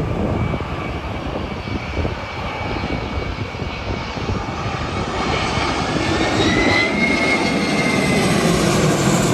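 Jet airliner's engines running loud during a go-around, a continuous rumble and rush with a whine that rises in pitch about six to seven seconds in, the noise building toward the end.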